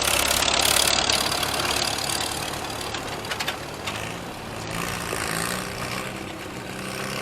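Gas farm tractor engine running loud for about the first three seconds, then easing off to a quieter, steady run with a clear engine hum.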